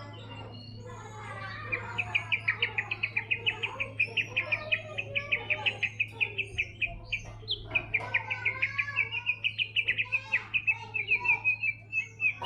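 White-rumped shama singing a long rapid trill of short repeated notes, about six a second, with a brief break about halfway through, over a steady low hum.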